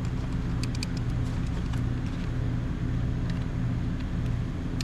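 Starter of a Caterpillar backhoe diesel engine, energised from a 12-volt battery, giving a steady hum with scattered clicks without cranking the engine over. The owner suspects a bad starter or poor connections; a weak battery is also in question.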